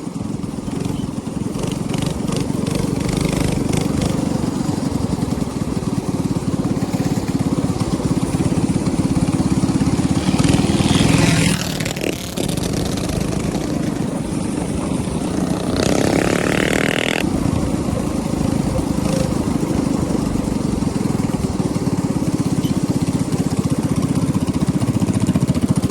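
Small minibike engine running steadily, a continuous low drone, with two short bursts of louder, brighter noise about 11 and 16 seconds in.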